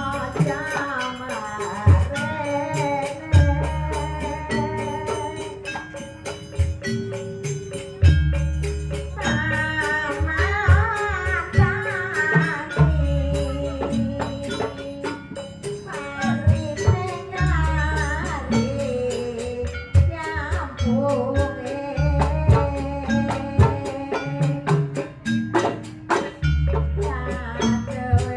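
Javanese gamelan music for a barongan dance: struck metallophones holding a steady melody, repeated heavy drum strokes in groups, and a high, wavering melody line over them.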